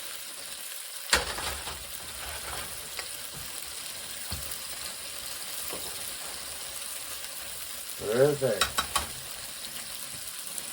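Food sizzling steadily as it fries in a hot pan, with a sharp knock about a second in and a few lighter taps.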